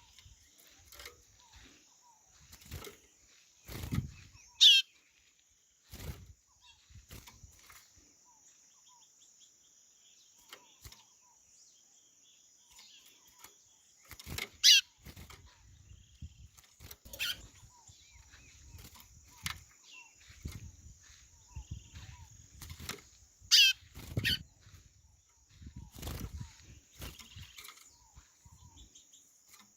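White-bellied seedeater (chorão) giving a few short, sharp whistled calls that sweep downward in pitch, the loudest about 5, 15 and 24 seconds in, two close together near the end. A steady high insect buzz runs underneath, with scattered low thumps.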